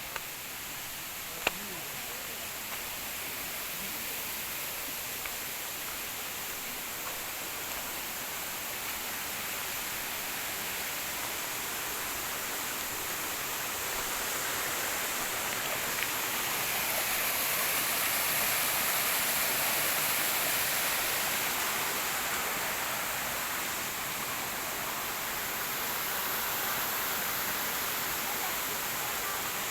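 Mountain stream rushing over rocks, a steady full-spectrum rush that swells somewhat louder in the middle and eases again. A single sharp click about a second and a half in.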